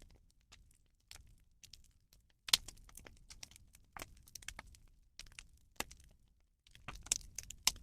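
Burning rubbish fire crackling: irregular sharp cracks and pops, clustered about two and a half seconds in and again near the end.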